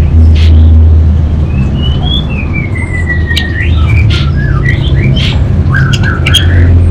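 Orange-headed thrush singing a varied phrase of short chirps, a long falling slurred whistle and sharp clicks. A strong steady low hum runs underneath.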